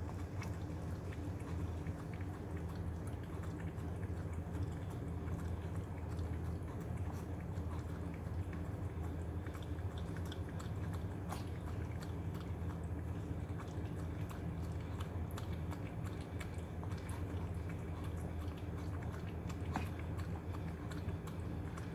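An old Maltese dog eating grated cucumber greedily: a quick, steady run of small wet clicks and smacks of licking and chewing. A steady low hum lies under it.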